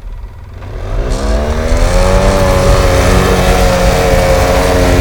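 Engine of a track-equipped off-road vehicle revving up from about a second in and then held at high revs, pulling under load as it climbs a snowy slope.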